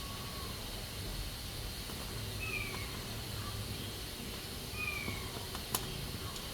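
Pressure cooker hissing steadily as it lets off steam. Partway through come two short falling calls from an animal, and near the end a single sharp click.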